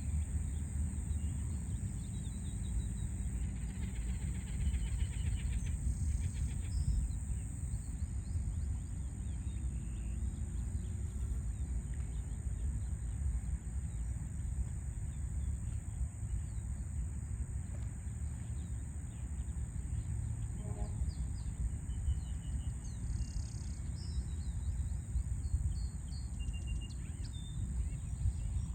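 Low, steady rumble of distant city traffic with scattered short bird chirps and calls over it, and a steady high hiss.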